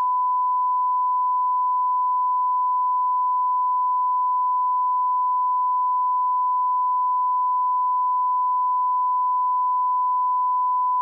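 Steady 1 kHz sine-wave line-up tone at −18 dB, a single unwavering pitch at constant level, used as the audio alignment reference.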